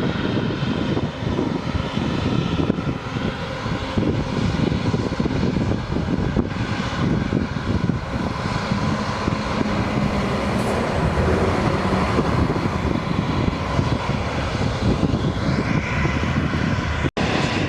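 Jet airliner engine noise, a steady loud rush and rumble, with a brief cut-out near the end.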